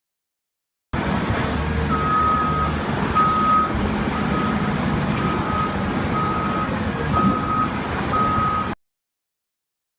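A truck's reversing alarm beeping steadily, about once a second, over a low engine rumble.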